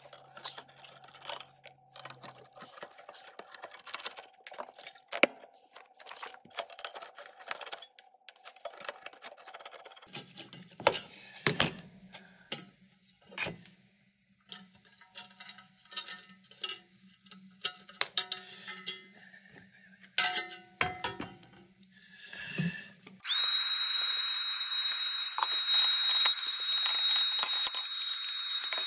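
Scattered clicks, taps and scraping of parts and tools being handled, then a vacuum cleaner switches on suddenly about 23 seconds in and runs with a steady hiss and a high whine, sucking dust out of an old computer power supply.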